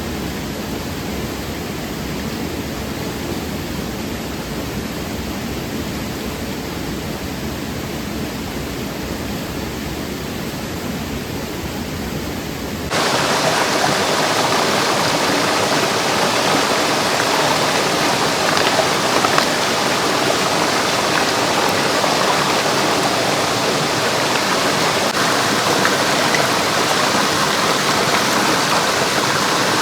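Mountain stream running, a steady rush of water. About thirteen seconds in it changes abruptly to a louder, brighter rush.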